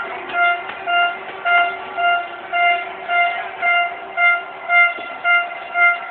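A horn sounding in short, even toots about twice a second, each at the same pitch, over a fainter steady lower tone.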